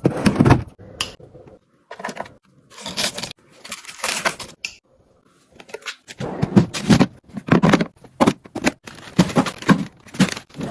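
Plastic storage boxes and food packaging being handled and set down: irregular clatter, knocks, scraping and rustling, with short pauses about a second and a half in and near the middle.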